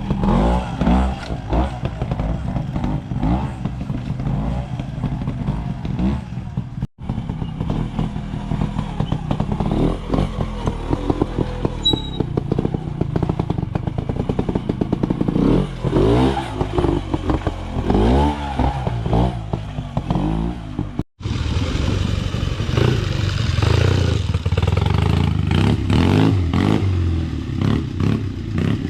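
Trials motorcycle engines revving and blipping, rising and falling in pitch as riders work through an observed section, with clatter from the bikes over the rough ground. The sound breaks off sharply twice, at about 7 and 21 seconds in.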